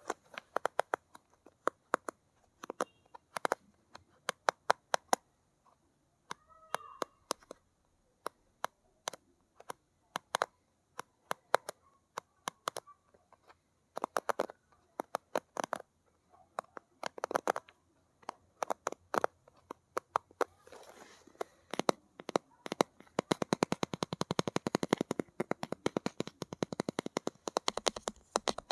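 Gentle ASMR tapping on hard objects: irregular single taps and short clusters, turning into a fast, steady run of taps for the last several seconds.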